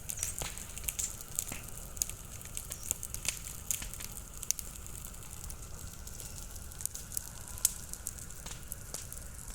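Large bonfire crackling, with many sharp, irregular snaps and pops over a steady low rumble.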